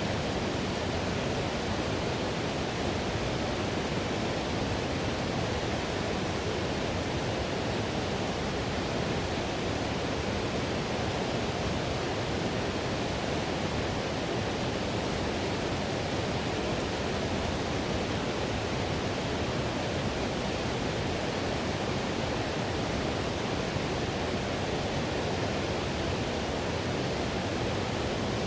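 Whitewater river rushing steadily, a dense even roar of turbulent water with most of its weight in the low and middle range.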